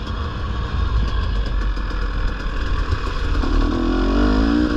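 Dirt bike engine running on the move, with a steady low rumble; a little over three seconds in it revs up, its pitch climbing steadily as the bike accelerates.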